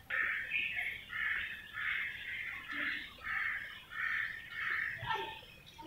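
A bird giving a run of about eight harsh, evenly spaced calls, roughly one every two-thirds of a second.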